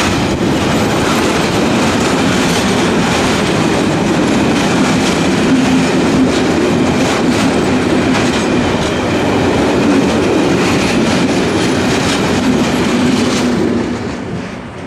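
Coal train's hopper wagons rolling past at close range: steady rumble of wheels on rail with repeated clicks over the rail joints and a steady low drone, dying away about a second before the end as the last wagon passes.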